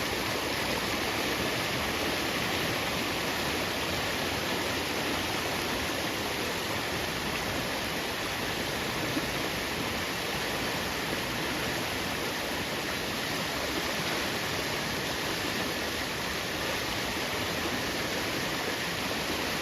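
Storm-swollen creek rushing steadily, high with runoff after heavy rain.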